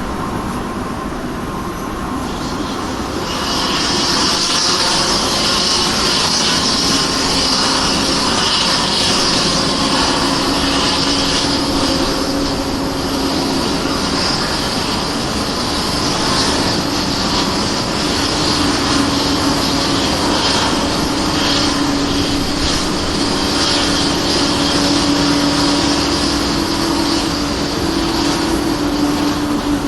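Boeing 777-200ER's Pratt & Whitney engine start: a loud air hiss comes up about three seconds in and a low whine slowly rises in pitch as the engine spools up.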